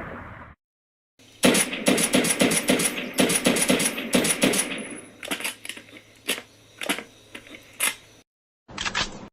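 Automatic gunfire: a rapid burst of shots, then sparser, quieter single cracks over a few seconds, and a short final burst near the end.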